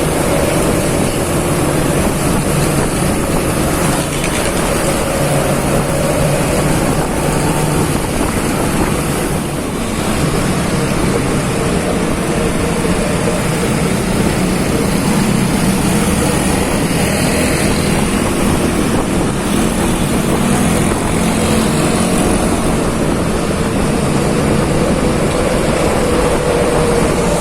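Steady engine and road noise of vehicles driving along a road, with wind on the microphone; a faint held engine tone runs under it and a brief dip comes about ten seconds in.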